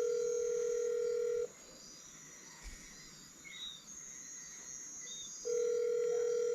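Telephone ringback tone of an outgoing call that is not being answered: a steady single-pitch tone for about two seconds, then a four-second gap, then the tone again near the end.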